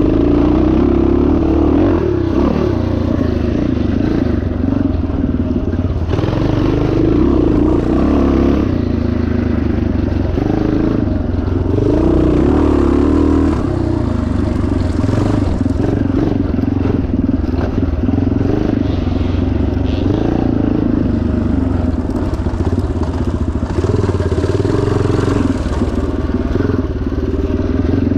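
1977 Yamaha TT500's single-cylinder four-stroke engine running hard, its pitch rising and falling every few seconds as the throttle is opened and closed while the bike is ridden off-road.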